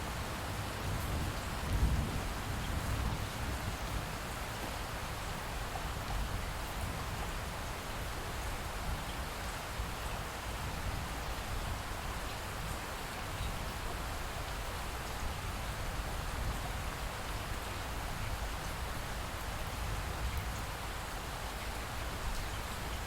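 Light, steady rain falling, with a low rumble of distant thunder underneath that swells briefly about two seconds in.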